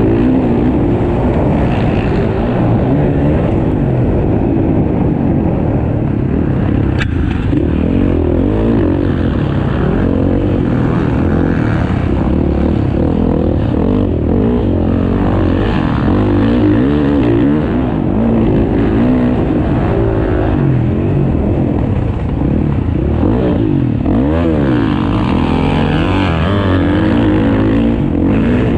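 Several motocross bikes racing, their engines revving up and down as they accelerate and shift, the pitches of different bikes rising and falling across one another.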